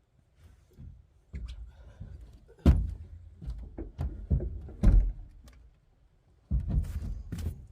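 Irregular metal knocks, clanks and thunks from a steel headache rack being worked back onto a pickup truck bed. The two loudest knocks come about 3 and 5 seconds in, and a fresh cluster of knocks and rattles starts after a short pause near the end.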